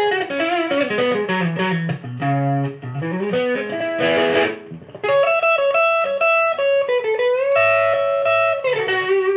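Electric guitar played through an effects pedalboard into a Marshall AVT50 amplifier. It runs quick single-note lines with slides, has a brighter strum about four seconds in, and holds long sustained notes through the second half.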